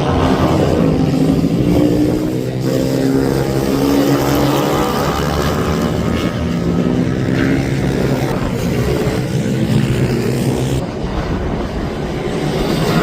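Racing minibike engines revving high and shifting up and down in pitch, several overlapping as the bikes circulate on track.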